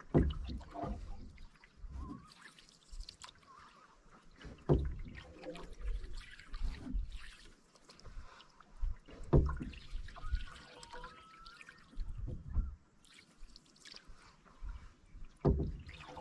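Canoe paddle strokes in calm water: a stroke every four to five seconds, and between them water trickling and dripping off the paddle blade.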